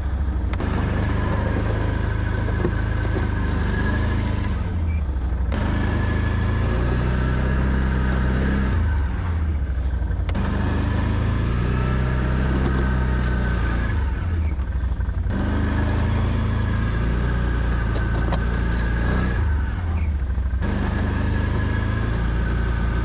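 Can-Am Outlander 650 ATV's V-twin engine running under load while plowing snow. About every five seconds the engine note drops and shifts, and a rushing scrape of snow along the plow blade breaks off briefly as the machine stops and changes direction.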